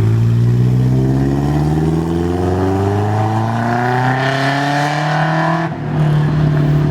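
A car engine accelerating hard in one gear, its note rising steadily for about six seconds. Near the end the note cuts off suddenly as the driver shifts or lifts off, and a steady lower engine note follows.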